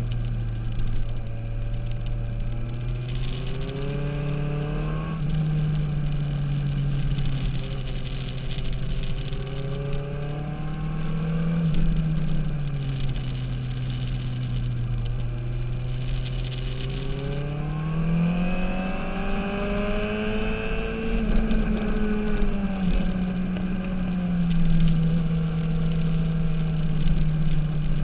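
Sport motorcycle engine heard onboard at speed, its note climbing under acceleration and dropping back as the throttle eases, several times over. A steady rush of wind sits under it.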